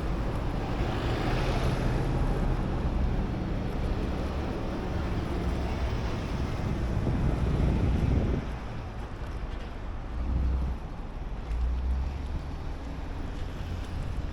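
Wind buffeting the microphone over a low rumble, easing off about eight seconds in.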